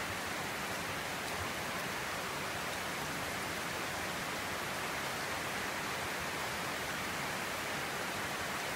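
Steady rain falling on a roof and on the trees: an even, unbroken hiss of drops with no single events standing out.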